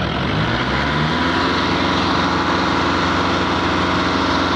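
Kubota tractor's diesel engine revving up over the first second or so, then running steadily at the higher speed.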